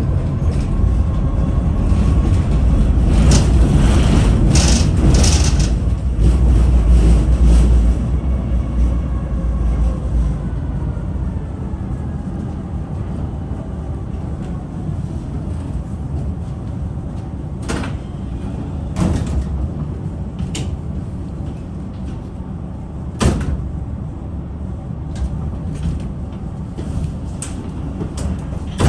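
Tram running with a heavy low rumble and a faint whine that falls in pitch as it slows, about a third of the way in; then a quieter steady hum with a few sharp clicks and knocks.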